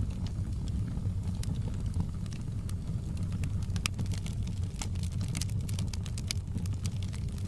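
Wood fire burning in a fireplace: a steady low rumble of the flames with many small sharp crackles and pops, which come thicker about five seconds in.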